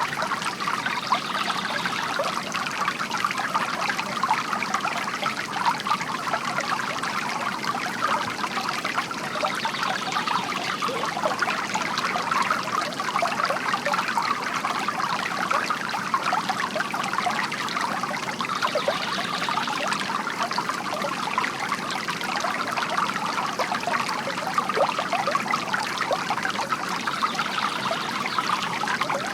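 Water trickling and splashing steadily from a bamboo garden fountain.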